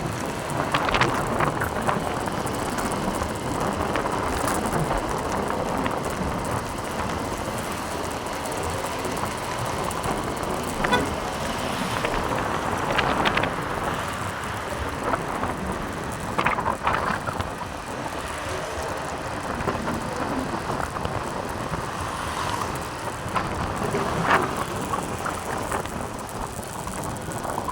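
Motorbike being ridden along a road: steady engine, wind and road noise, with a few short louder sounds scattered through it.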